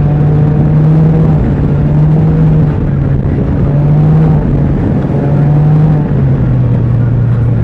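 Can-Am Ryker three-wheeler's engine running on the road through an aftermarket exhaust. Its pitch steps up and down a few times, then drops and holds lower near the end.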